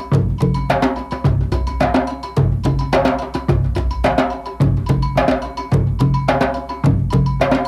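Background music: an African drum performance, many fast drum strokes in a pattern that repeats about once a second.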